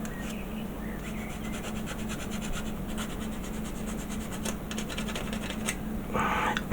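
Rapid back-and-forth strokes of a sanding stick on a plastic model kit part, a dry scratching rub, with a louder stretch of rubbing near the end.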